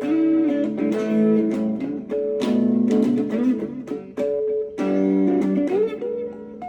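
Instrumental guitar music: a plucked guitar playing a melody of separate ringing notes, with a few short sliding notes near the end.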